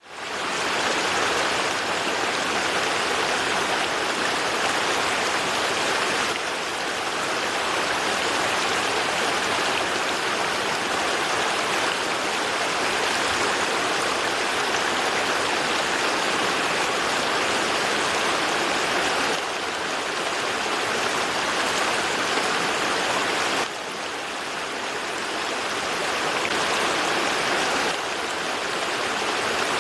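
A river's flowing water making a steady, dense rushing hiss that fades in over the first second, with small shifts in level now and then.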